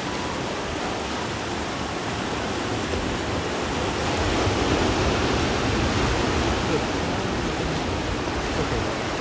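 Ocean surf washing against a rocky shore: a steady rushing that swells a little about four to six seconds in.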